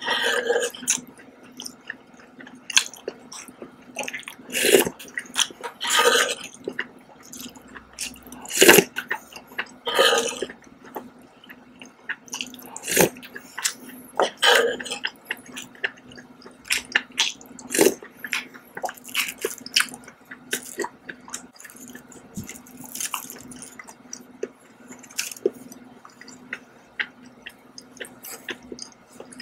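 Close-up chewing and wet mouth sounds of someone eating soft scallops in sauce, with many light clicks and several louder bursts spread through. A steady low hum runs underneath.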